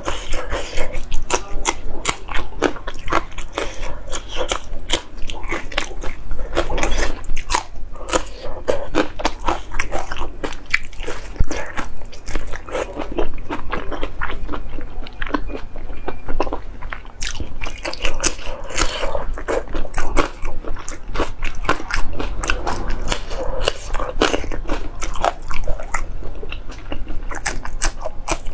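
A person chewing and biting food close to the microphone: a continuous run of irregular, moist mouth clicks and crunches, the sound of mukbang eating.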